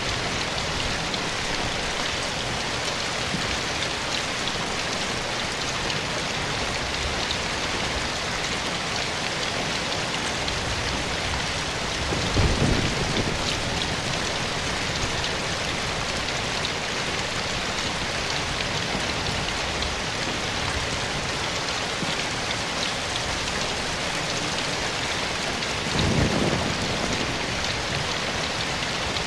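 Steady soft rain falling in a forest, an even patter and hiss. Two brief low rumbles rise out of it, about twelve seconds in and again near the end.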